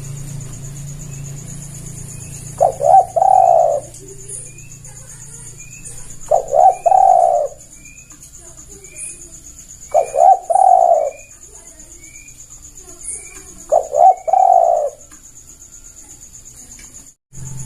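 Spotted dove cooing: four phrases, one about every three and a half seconds, each a couple of quick short notes running into a longer coo. Faint, short high chirps repeat steadily in the background.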